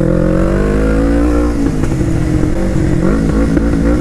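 Kawasaki Ninja EX500R parallel-twin engine through a full 2-into-1 aftermarket exhaust, heard on board while riding. Its note rises under acceleration for about a second and a half, then falls away and wavers before steadying.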